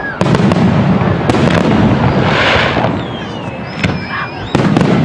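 Aerial fireworks bursting: a string of sharp bangs, a hiss about halfway through, and a falling whistle.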